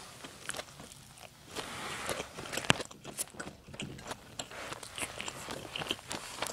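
Close-miked chewing with many small wet mouth clicks, and a spoon clacking once against a ceramic bowl about two and a half seconds in.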